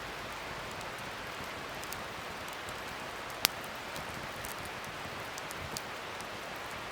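Wood fire burning with a steady crackle and hiss, scattered small ticks, and one sharp loud pop about three and a half seconds in.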